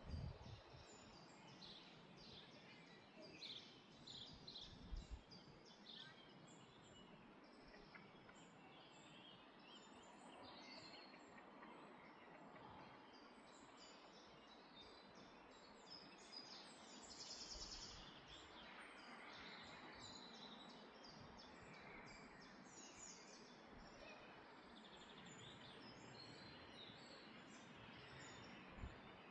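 Faint wild birds chirping and singing in short scattered phrases over a steady outdoor hiss, with a soft low bump about five seconds in.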